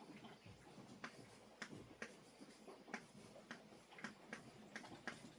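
Near silence with faint, fairly even ticking, about two short clicks a second.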